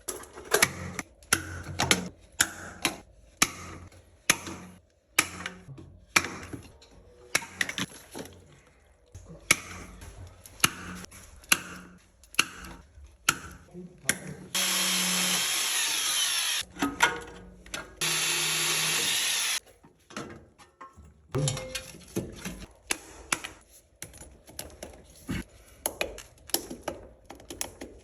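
Repeated clanks and knocks of tools on the metal fittings of a heating manifold being replaced. About halfway through, a power tool runs in two steady bursts of under two seconds each.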